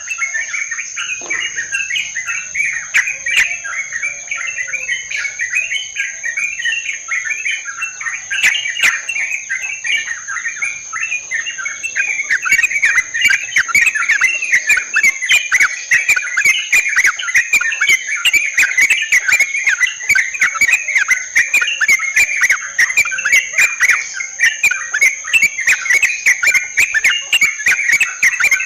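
A flock of yellow-vented bulbuls (trucukan) chattering nonstop in a dense, bubbling chorus, the kind of call recording used to lure the birds. A steady high insect buzz runs underneath, and about halfway through a fast run of sharp clicks joins in.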